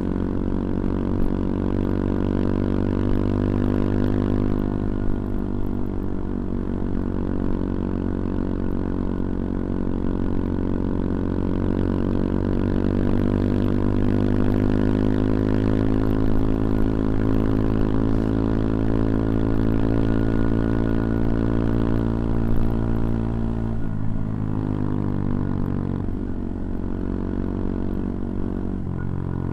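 CFMoto Papio XO-1 minibike engine running under throttle while riding, its pitch climbing slowly for much of the stretch. About three-quarters of the way through the pitch drops suddenly, as with a gear change or closing the throttle, and it dips briefly again near the end.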